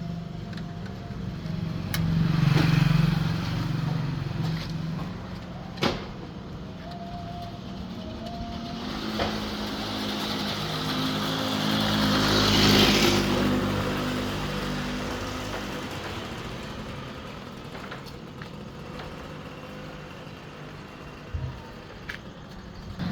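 Motor vehicle engines running, swelling louder twice as if vehicles pass close by, with a few sharp knocks.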